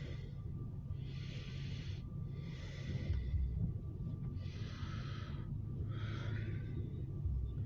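A person breathing heavily and noisily close to the microphone, five breaths in and out about a second and a half apart, over a steady low rumble.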